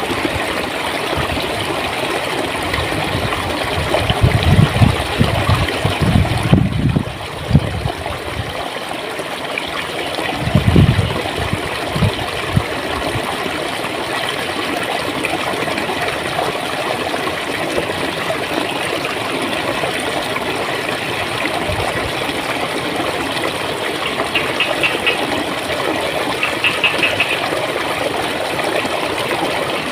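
A stream of clear water running and gurgling steadily, with a few low rumbling surges a few seconds in and again about ten seconds in.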